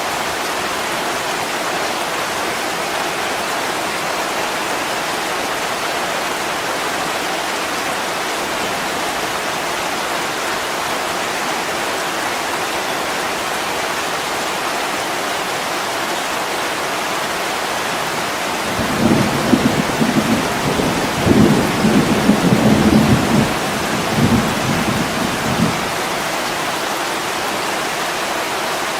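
Heavy rain falling steadily on a window, with a low roll of thunder that rumbles in uneven swells for about seven seconds, starting about two-thirds of the way through.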